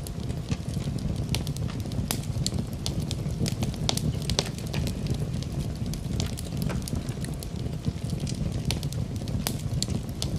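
Fire burning in a fireplace: many irregular crackles and pops over a steady low rush of the flames.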